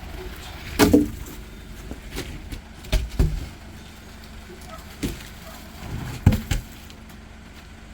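Heavy firewood logs thudding as they are dropped and knocked together while being handled. There are about seven thuds, irregularly spaced and some in quick pairs, over a low steady hum.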